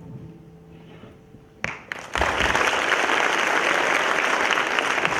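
A short lull, then an audience starts applauding about two seconds in and keeps clapping steadily.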